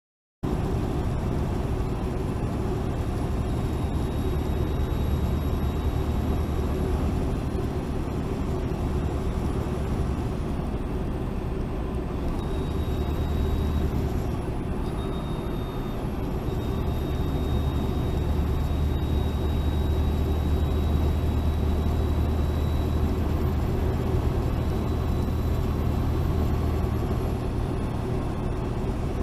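Steady road and engine drone of a moving car as picked up by a dashcam, with a low hum and a faint thin high whine.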